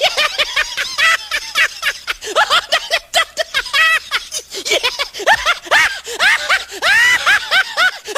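High-pitched laughter sound effect: a rapid string of short 'ha' bursts, several a second, running almost without pause.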